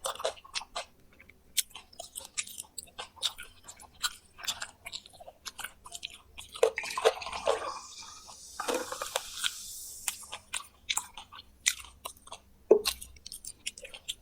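Close-miked chewing and crunching of fried quail, with many sharp crackling bites as the small bones are bitten through. A denser stretch of wet munching comes in the middle.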